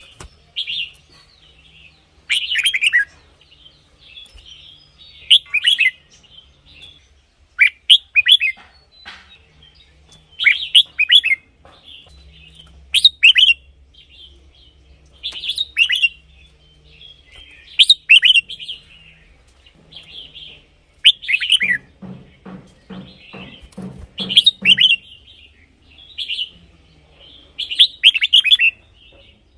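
Red-whiskered bulbul singing: short, loud phrases of quick whistled notes, repeated every two to three seconds. About two-thirds of the way through, a quick run of low knocks sounds under the song for a few seconds.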